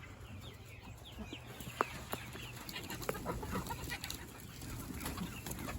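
Chickens clucking and chirping in short, scattered calls, with a few light clicks and knocks.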